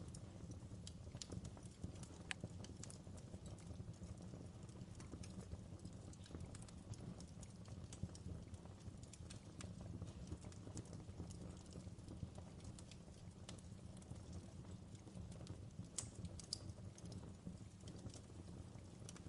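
Fire crackling in a fireplace: irregular sharp pops and crackles over a faint, steady low rumble.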